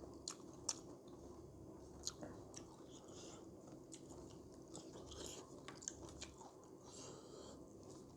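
A person chewing food close to the microphone, quiet, with scattered small wet clicks and crunches from the mouth.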